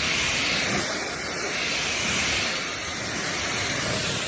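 Ryobi cordless foam blaster spraying a plain water rinse onto a car, its foam lever switched off: a steady hiss of spray.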